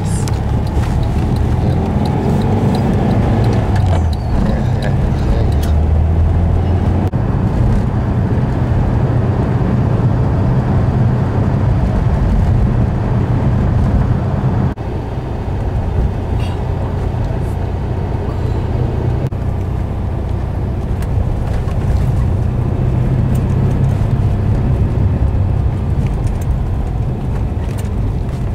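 Car engine drone and road noise heard from inside a moving car's cabin, the engine pitch rising and falling as the car speeds up and slows, with a brief drop about fifteen seconds in.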